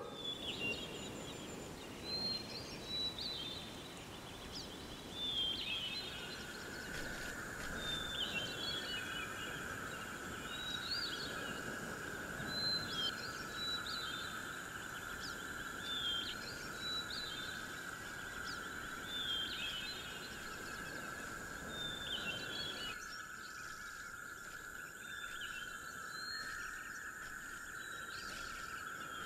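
Woodland ambience: a bird sings short chirping phrases, repeated every second or two, over a low hiss. About six seconds in a steady high tone comes in and holds.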